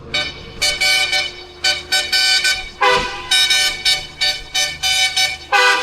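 Vehicle horn sounded in a long rapid series of short toots, about two to three a second, with a couple of lower-pitched blasts among them, over a low engine hum.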